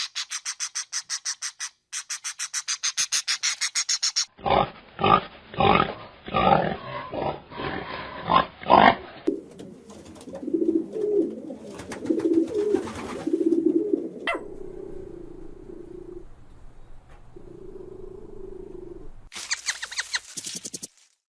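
Animal calls from several short clips cut abruptly together: a fast, even rattle of high pulses, then a string of loud, rough low calls, then softer low calls, and the fast high rattle again near the end.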